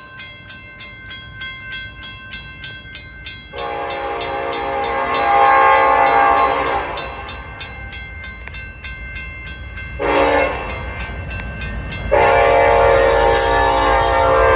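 Grade-crossing bell dinging about three times a second, then a Union Pacific freight locomotive's horn sounds as the train approaches: a long blast, a short blast, then another long one, the standard crossing signal. The low rumble of the approaching train grows beneath it.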